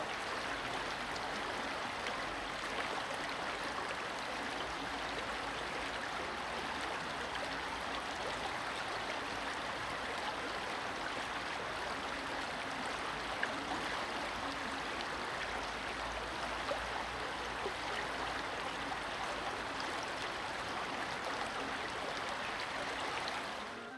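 Running stream water, a steady rushing and gurgling that holds at an even level throughout.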